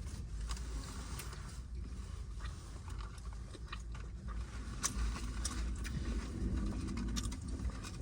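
Close-up chewing of a burger: scattered soft, wet mouth clicks and smacks over a steady low hum.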